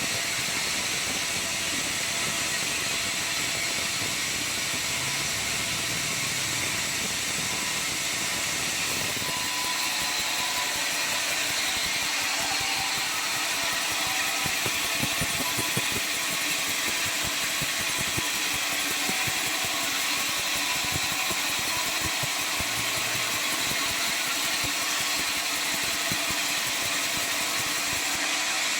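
Sawmill circular saw machine running steadily while sawing a large albasia log: an even, continuous mechanical noise with no breaks.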